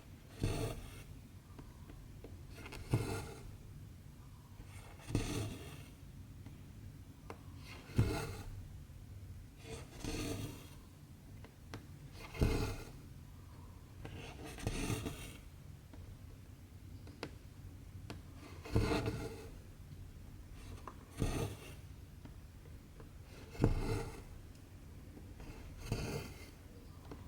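Cotton embroidery thread being drawn through 14-count cross-stitch fabric, each stitch giving a short rasping swish. About a dozen swishes come evenly, one every two to two and a half seconds.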